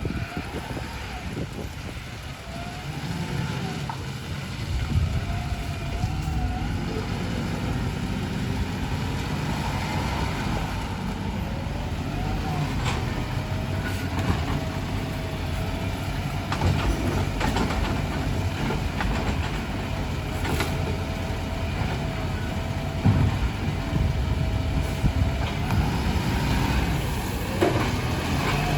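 Garbage truck running, its engine a steady low rumble with a whining tone held through the second half and occasional knocks and clanks.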